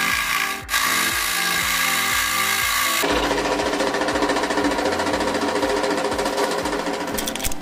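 A power tool working wood, loud and continuous, its sound changing abruptly about three seconds in to a buzzier, rapidly pulsing tone. Background music plays underneath.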